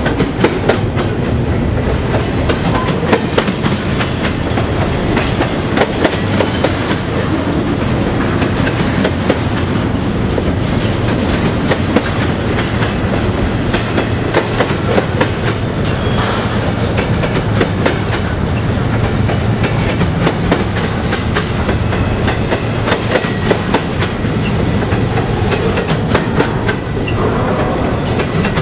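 Double-stack intermodal container train rolling past: a loud, steady rumble of loaded well cars, with the clickety-clack of wheels over the rail joints.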